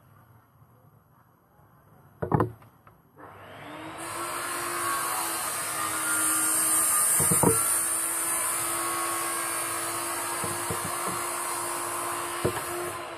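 A knock, then a small electric power tool switches on and runs steadily for several seconds with a few clicks, then slows down after being switched off near the end.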